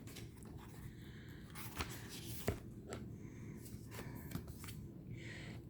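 Faint handling noise of tarot cards being moved to the next card: soft rustling with a few light clicks.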